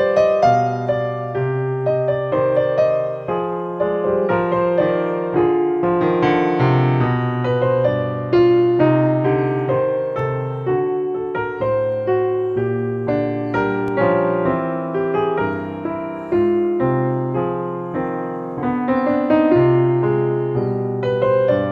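Piano music: a steady flow of struck notes and chords, each note dying away after it is played.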